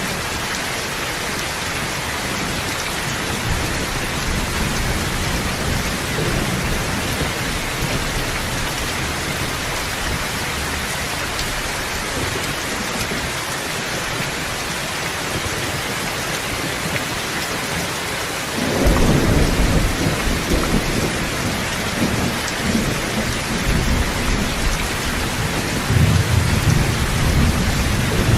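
Steady heavy rain with rumbling thunder. A loud low rumble of thunder breaks in suddenly about two-thirds of the way through, and another swells near the end.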